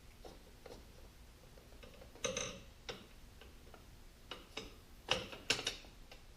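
Hard metal clicks and clacks as a clutch release bearing is worked by hand onto its release fork: a scatter of separate sharp clicks, the loudest clusters about two seconds and five seconds in.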